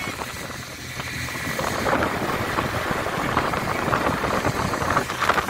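A boat's engine running steadily, a low hum under a noisy wash.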